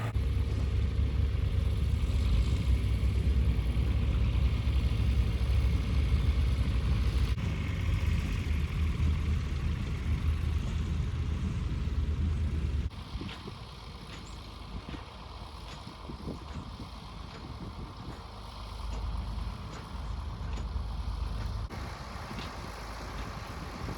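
Farm tractor engine running steadily; about halfway through the sound drops abruptly to a quieter, lower engine rumble with scattered faint clicks.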